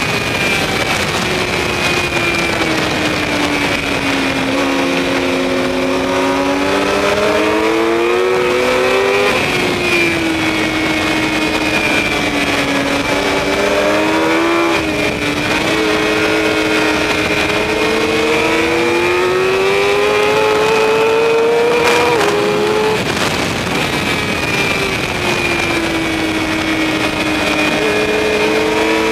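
Suzuki sportbike's engine at racing speed, recorded by a camera on the bike: the revs climb and fall through the gears, dropping suddenly at several gear changes, over steady wind rush and a constant high whine.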